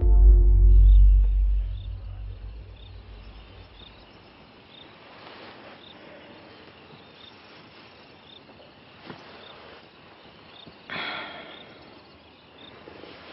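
A deep low boom at the start, fading away over a couple of seconds, gives way to quiet outdoor ambience with an insect, like a cricket, chirping briefly at a regular pace. A short rustling burst comes near the end.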